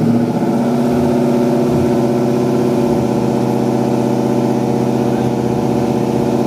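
Loud vehicle engine running at a steady speed, holding one unchanging pitch.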